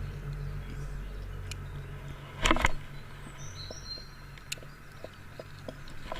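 A cast from a kayak: about two and a half seconds in, a brief sharp noise as the frog lure lands on the water, then faint irregular ticks as it is worked back. Short high bird chirps sound a little later, over a low hum that stops around the time of the cast.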